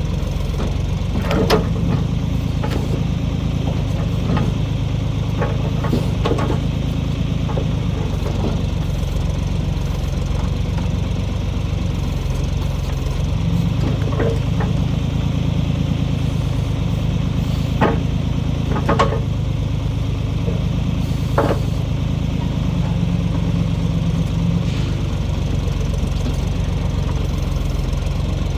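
1973 Ford 4500 industrial diesel backhoe engine running steadily while the backhoe digs out a stump, with about six sharp clanks spread through it.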